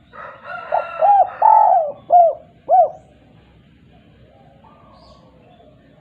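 Spotted dove (derkuku/tekukur) cooing one phrase of its 'kuk 2' song. Drawn-out coos are followed by two short clipped notes near the end, and the phrase stops about halfway through.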